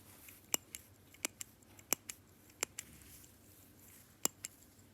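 Seagull 1963 chronograph's pushers being pressed and released, working the ST19 column-wheel mechanism: five sharp double clicks, the first four less than a second apart and the last after a pause of about a second and a half.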